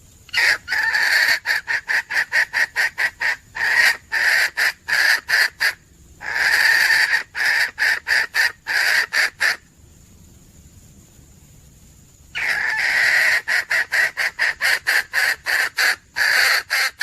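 Junglefowl hen calling in long runs of rapid clucking notes, about four a second, with a pause of about three seconds near ten seconds in before a new run starts with a longer note.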